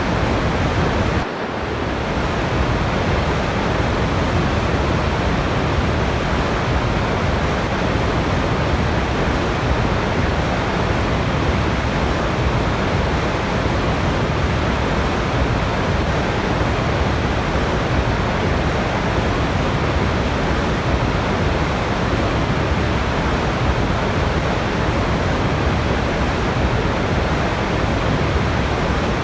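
Steady, unbroken rush of falling water from a waterfall, with a brief dip in level about a second in.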